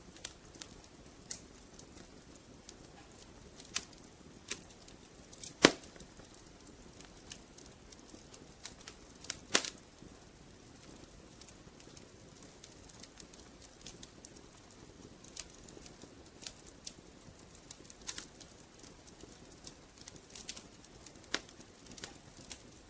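Wood fire crackling: irregular snaps and pops over a soft low hiss, with two louder pops about six and ten seconds in.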